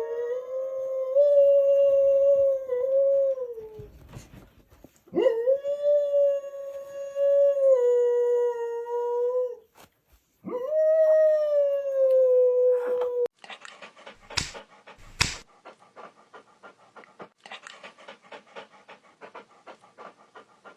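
Dog howling: three long howls, each sliding up at the start and then holding steady, with short breaks between them. After that comes a quieter stretch of rapid faint ticking, with two sharp knocks near the middle.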